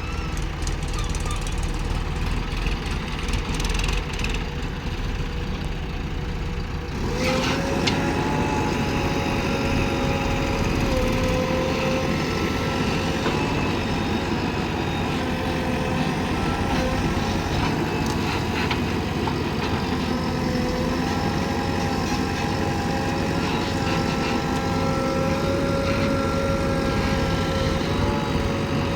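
Diesel engines of earth-moving machinery, a JCB digger and tractors, running at work. About seven seconds in, the low rumble steps up sharply into a louder, steady whining note that holds, as an engine goes up to working revs under load.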